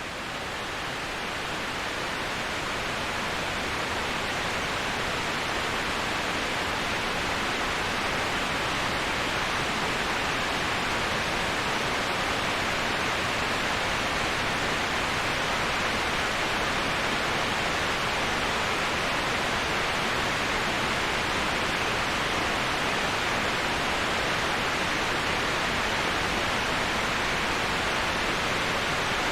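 Waterfall white noise: a steady, even rushing hiss of falling water, strongest in the middle and upper range. It fades in over the first few seconds, then holds unchanged.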